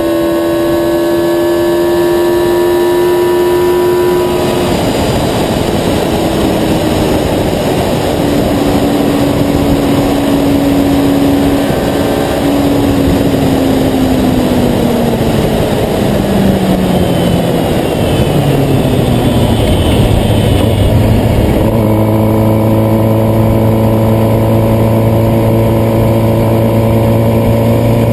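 Motor vehicle engine running, its hum dropping in pitch over several seconds as the vehicle slows, then a steady low idling hum after an abrupt change about 22 seconds in.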